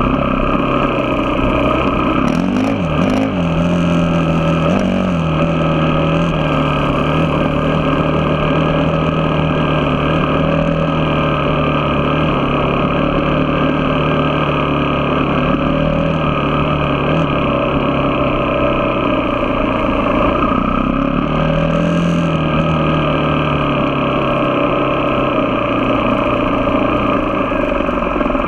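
A vehicle engine running steadily under way, its pitch rising and falling briefly about three seconds in and again near the twenty-second mark as the speed changes.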